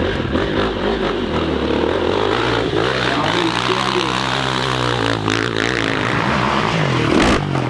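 Dirt bike engine revving hard under load, its pitch rising and falling, then cutting off abruptly near the end.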